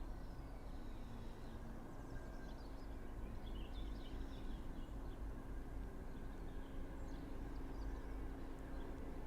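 Quiet outdoor station ambience: a low steady rumble with a faint hum, and a few birds chirping, about four seconds in and again near seven seconds.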